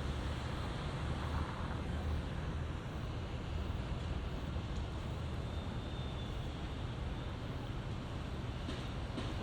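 Steady hum of road traffic passing, mixed with wind rumbling on the microphone of the moving bicycle.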